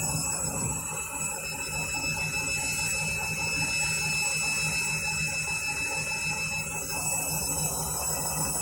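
Candy washing machine running in its final spin cycle, the drum turning with a steady motor hum and a faint high-pitched whine.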